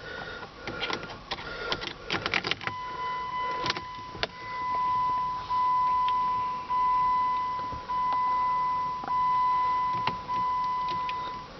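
A few clicks and rattles, then the 2006 Jeep Commander's dashboard warning chime: one steady high tone swelling in pulses a little over a second apart, stopping shortly before the end. It sounds with the key turned on, just before the engine is cranked.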